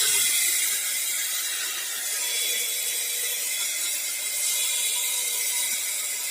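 Paint Zoom handheld electric paint sprayer running steadily while spraying wall paint: an even, high air hiss with a faint steady motor whine.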